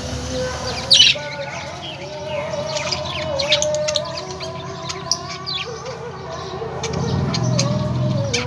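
Small pet birds chirping: many quick, sharp chirps in an irregular stream, a few at a time.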